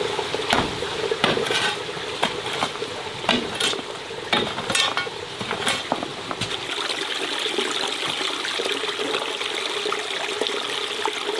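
A rapid series of clinks and knocks, like utensils working in a pot, for about the first six seconds, then a steady sound of rushing water.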